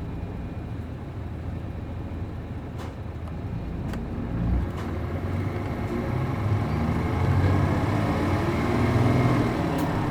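Route bus with an MD92TJ diesel engine and a 5-speed manual gearbox running, the engine note growing louder and stronger in the second half as it pulls harder. A low thump comes just before the build-up.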